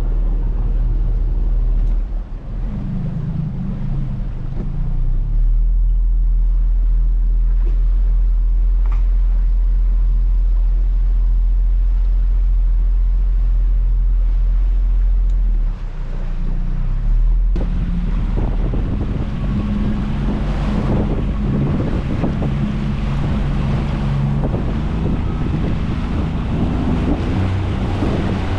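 Motorboat engine running steadily as a boat moves over open sea, a deep continuous rumble with wind buffeting the microphone. Past the halfway point the low rumble eases and a broader hiss of wind and water grows louder.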